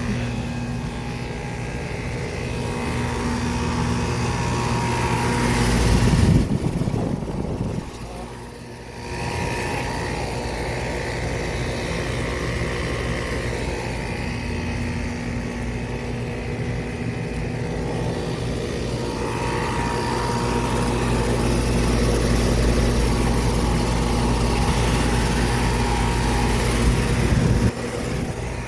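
Air-conditioning condensing unit running in cooling mode: a steady compressor hum under the whoosh of the condenser fan. There is a louder low rumble about six seconds in and another stretch of low rumble later on.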